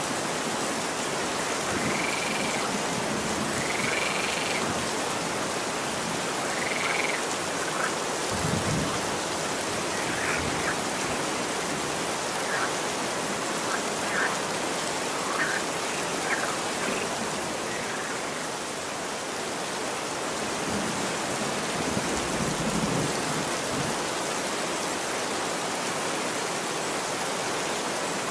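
Steady rain falling on a street, with a scattering of short chirping calls over it through the first half. A couple of brief low rumbles sound about a third of the way in and again past the middle.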